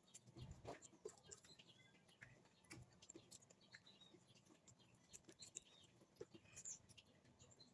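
Near silence, with faint scattered clicks and a few short high chirps.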